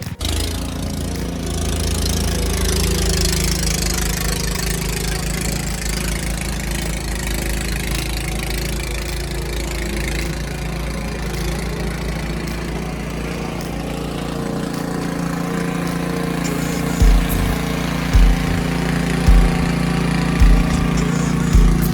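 An engine running steadily with a low hum. Over the last few seconds a deep thump comes about once a second.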